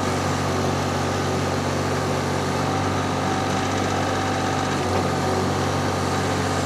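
Vmeng VM1000 mini skid steer's engine running steadily under load as its loader arms raise a heavy pallet of concrete blocks toward full height.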